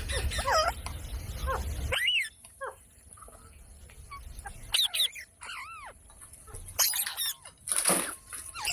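A parrot giving a string of short squawking calls that rise and fall in pitch, with a harsher screech near the end. A low rumble runs under the first two seconds.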